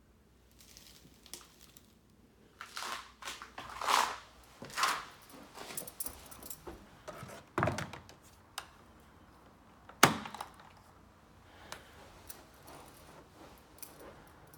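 Handling noises: scattered rustles, clinks and knocks, the loudest a single sharp knock about ten seconds in.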